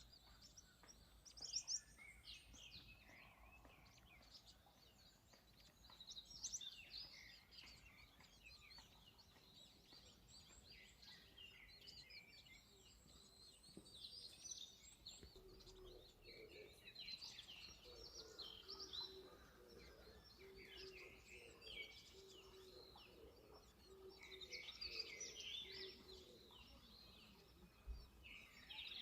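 Small songbirds chirping and twittering in scattered bursts, high-pitched and faint, with busier clusters about a quarter and two-thirds of the way through. A lower, evenly repeated note runs under them from about halfway to near the end.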